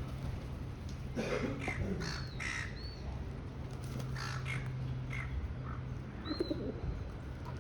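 Harsh, cawing bird calls in short bursts, a cluster about a second in and more a few seconds later, with a few short high chirps and a low steady hum underneath.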